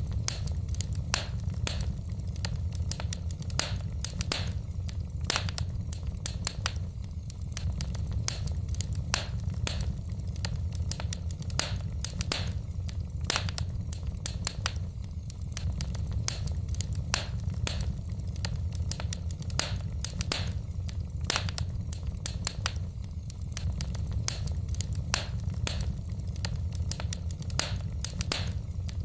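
Wood fire crackling in a fireplace: irregular sharp pops and snaps of burning logs, several a second, over a steady low rumble.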